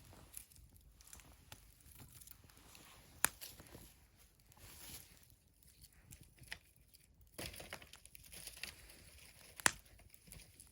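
Wood fire burning, crackling and hissing irregularly with scattered pops; two sharp pops stand out, one about three seconds in and a louder one near the end.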